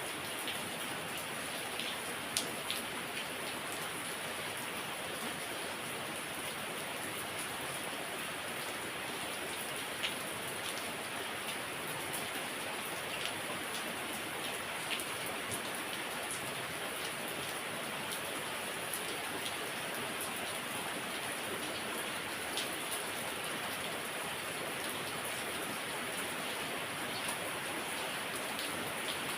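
Heavy rain falling steadily, a dense even hiss with scattered sharper drops hitting a surface.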